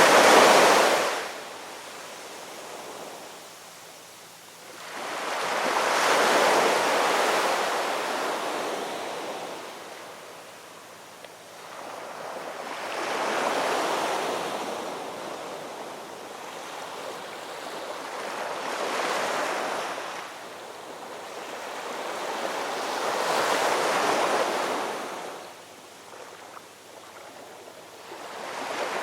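Ocean waves surging in and washing back, each wave swelling up and fading away, one every five to seven seconds. The loudest wave comes at the very start.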